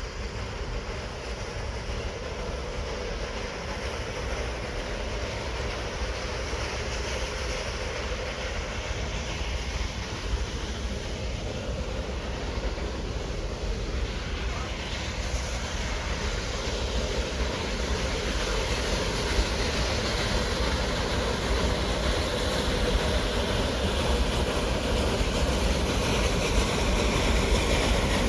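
Narrow-gauge steam train running on the line, growing steadily louder as it approaches.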